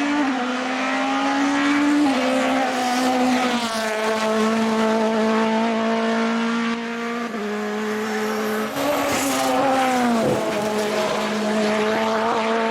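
Hillclimb race car engine at high revs, held hard through a run of gear changes: its pitch climbs, then steps down at each shift, several times.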